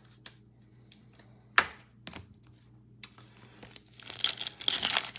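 A few light clicks and one sharp snap of card handling, then from about four seconds in a foil trading-card pack wrapper crinkling loudly as it is torn open.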